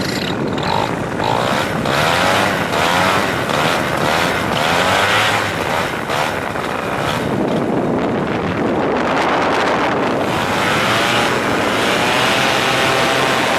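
A motor vehicle's engine running, its pitch rising and falling again and again, with wind noise over it.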